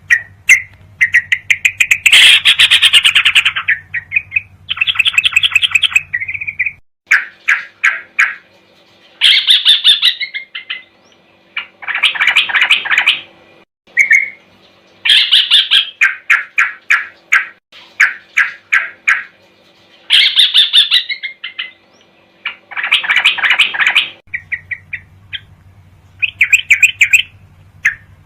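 Yellow-vented bulbul (trucukan) song from a looped training recording: quick rattling runs of chirps in phrases a second or two long, repeated with short pauses. A steady low hum runs under the first few seconds and again near the end.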